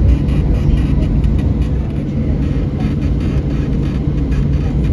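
Steady low engine rumble heard from inside a vehicle, with faint voices in the background.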